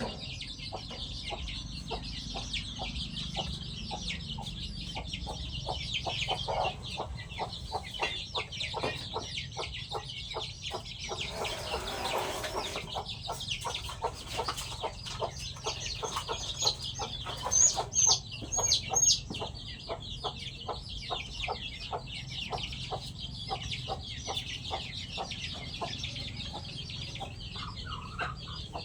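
Chickens clucking as they peck at food, with a quick run of small taps. About twelve seconds in there is a brief rustle, and a little later a few short, sharp high calls ring out, the loudest sounds here.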